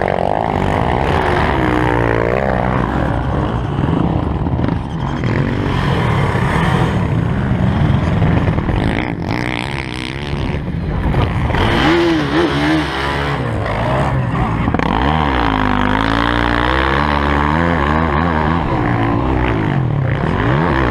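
Motocross dirt bike engines revving, the pitch rising and falling over and over as the bikes accelerate and shift.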